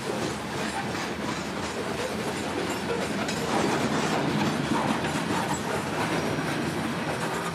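Coal train's open-top hopper cars rolling past, the steel wheels giving a steady rumble with a close run of clicks over the rail joints.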